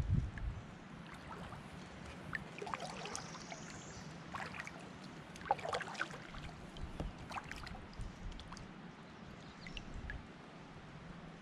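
Kayak paddling on calm water: scattered small splashes and drips from the paddle, bunched in the middle, over a steady faint hiss.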